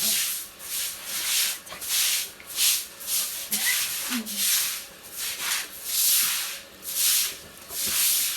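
Repeated rough scraping strokes over a masonry surface at an uneven pace, roughly one or two a second, from hand work at a building site.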